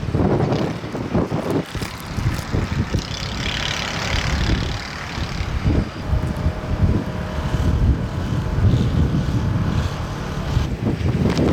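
Blizzard wind gusting and rumbling on the microphone, with a hiss that swells and fades about three to five seconds in.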